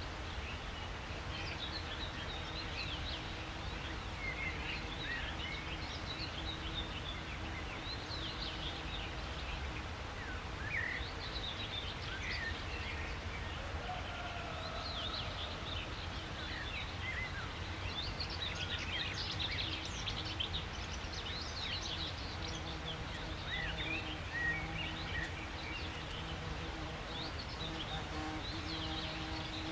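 Several birds chirping and calling at once, a dense chorus of short, high calls, over a steady low background rumble.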